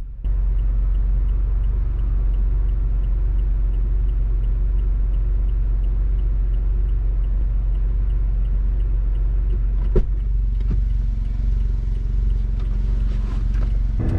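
Honda S660 being driven at a steady pace: a continuous low engine and road rumble from its small mid-mounted turbocharged three-cylinder, with a single sharp click about ten seconds in.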